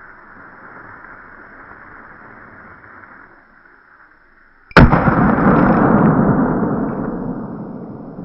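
Faint steady hiss, then about four and a half seconds in a single sudden loud bang, followed by a rumbling noise that slowly fades over the next three seconds.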